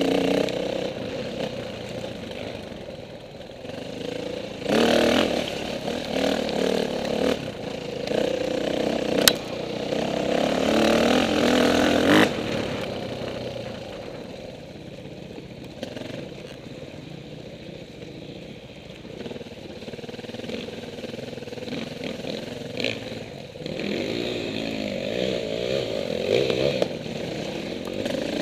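KTM 450 dirt bike engine running off-road, the throttle opening and closing so the revs swell and drop, loudest in the middle stretch. Two sharp knocks are heard, about 9 and 12 seconds in.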